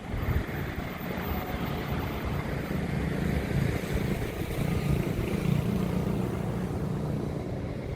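A vehicle engine running with a steady low drone that swells in the middle and eases near the end, with wind noise.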